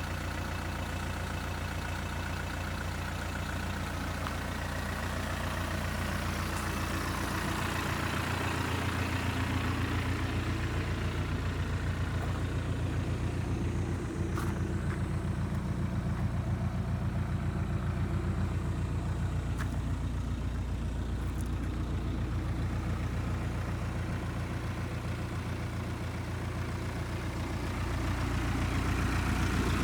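Isuzu Elf truck's 4BC2 four-cylinder diesel engine idling steadily, growing a little louder near the end.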